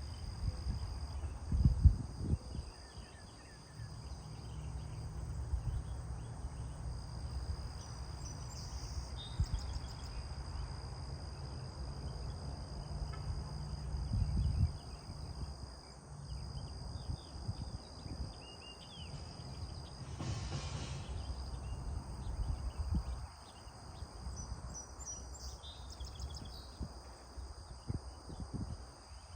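Outdoor ambience: insects trilling steadily at a high pitch, with a few short bird chirps now and then over a low, shifting rumble.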